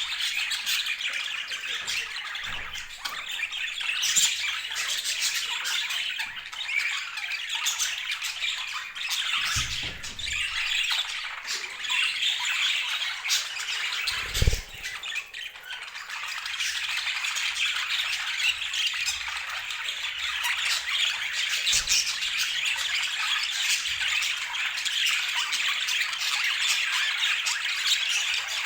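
Budgerigars chattering and squawking continuously, with two dull low thumps partway through.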